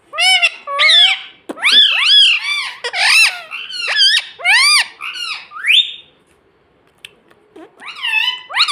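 Pet ring-necked parrot giving a rapid string of high, squeaky calls that swoop up and down in pitch, breaking off about six seconds in and starting again near the end.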